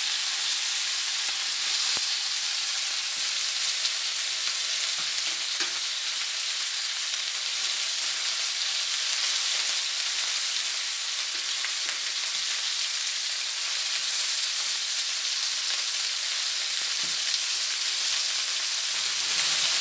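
Cornstarch-dusted chicken wings sizzling steadily as they shallow-fry in hot oil over high heat, with a few faint pops.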